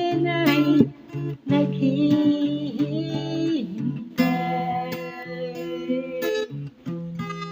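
Acoustic guitar strumming chords, with a voice holding long wavering sung notes over roughly the first half. After that the guitar carries on alone.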